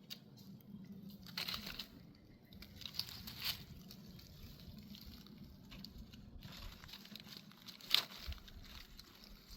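Intermittent rustling and crinkling, with a few sharper crackles, as something dry or papery is handled.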